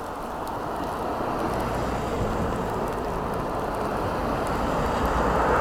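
A car approaching on the road, its tyre and engine noise growing steadily louder.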